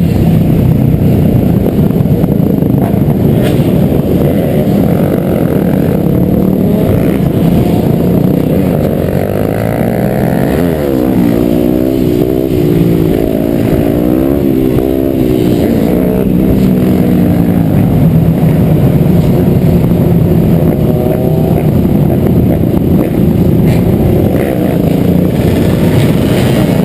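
Several dirt bike engines running together, their pitches rising and falling and crossing as the riders rev and let off, over a dense low rumble.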